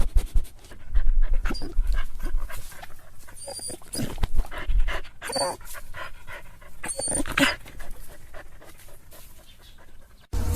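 A dog panting hard in quick, irregular breaths, with a few brief high whimpers.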